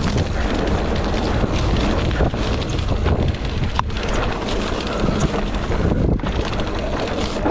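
Wind buffeting the microphone over the steady clatter and rattle of a mountain bike riding a rough trail downhill.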